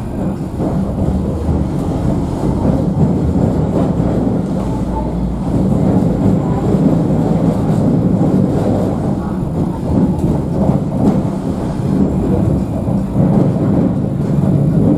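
Alstom Citadis tram running along the track, heard from inside the car: a steady rumble of wheels on rails with some light rattling.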